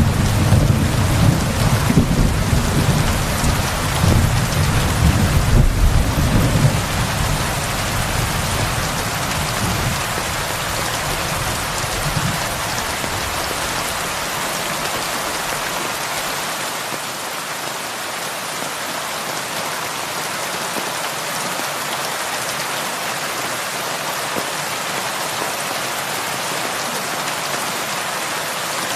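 Heavy rain pouring steadily onto a roof, with a long, deep roll of thunder that fades away around the middle.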